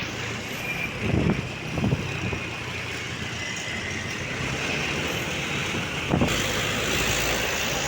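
Truck engine and road noise, with a few short knocks about a second in, near two seconds and at about six seconds; a deeper low rumble sets in after the last knock.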